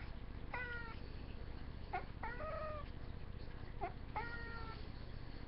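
Domestic cat meowing repeatedly: about five calls, some short and clipped, others drawn out for about half a second, over a faint steady low hum.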